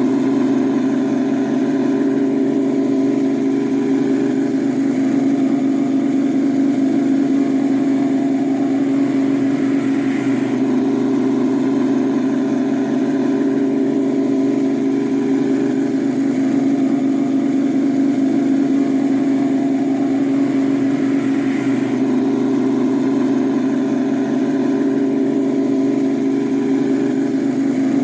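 An engine running steadily at one unchanging pitch, with no revving or gear changes.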